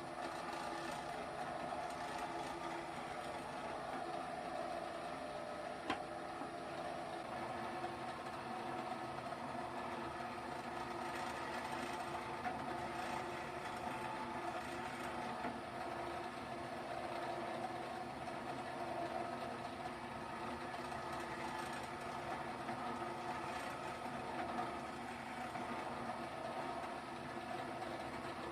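A 1968 NS12 bench drill press running steadily, its motor driven by a frequency inverter, with one sharp click about six seconds in.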